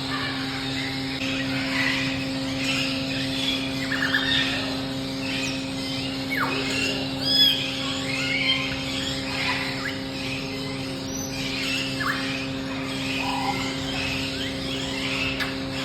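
Many birds chirping and calling at once, short chirps mixed with a few quick falling calls, over a steady low hum.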